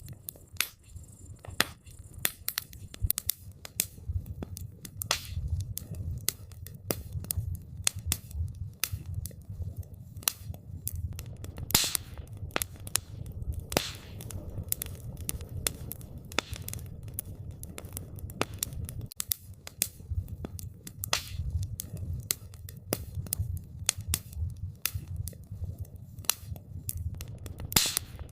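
Wood campfire crackling: irregular sharp pops and snaps, a few louder ones about twelve seconds in and near the end, over a steady low rumble.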